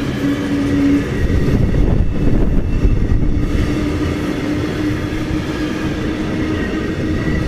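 A train passing on the line: a loud, steady rumble of wheels on rail with a steady hum held over it.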